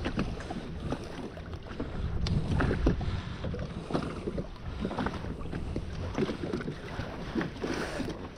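Wind on the microphone and water slapping against a jet ski's hull, with scattered short knocks.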